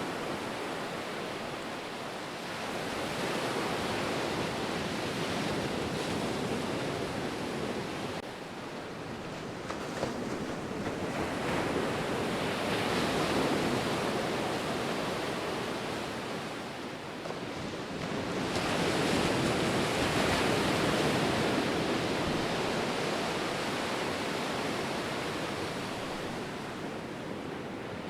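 Ocean surf: waves breaking and washing in slow swells, rising about every six to eight seconds and easing between.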